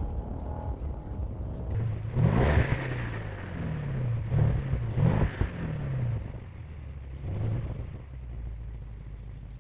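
BMW 6 Series engine and exhaust idling and blipped about four times. The revs rise sharply and fall back to idle each time.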